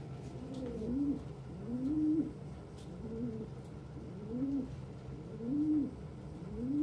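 Domestic pigeons cooing, their low rising-and-falling coos repeating about once a second and overlapping from more than one bird.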